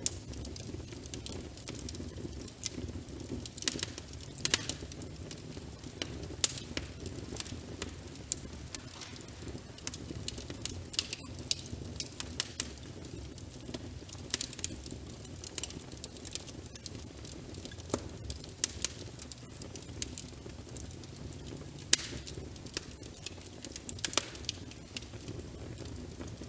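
Wood fire crackling, with irregular sharp pops and snaps, a few of them louder, over a steady low rumble and the patter of rain.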